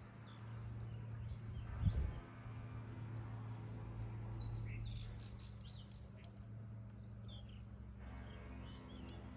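Wood fire burning in a rusty can, with a steady low rumble and scattered faint crackles, and a low thump about two seconds in. Birds chirp in a quick cluster of short calls around the middle.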